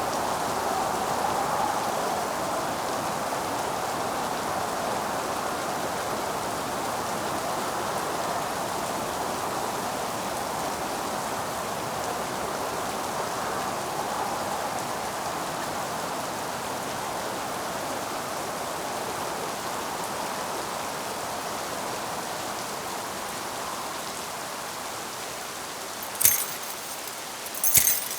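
Steady rain, an even hiss of falling water, with two sharp snaps near the end about a second and a half apart.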